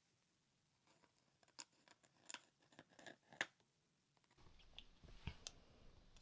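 Faint scratches and small clicks of a metal dip calligraphy pen nib writing on paper. A low steady hiss comes in after about four seconds.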